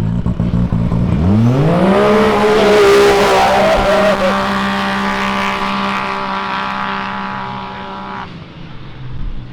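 Off-road racing engines launching off the start line: the revs climb steeply about a second in, then hold one steady pitch and fade as the vehicles pull away. The engine sound cuts off about eight seconds in.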